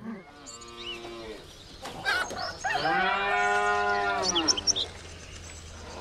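Cattle mooing: a shorter call at the start and a longer, louder moo about three seconds in, with short high chirps faintly above.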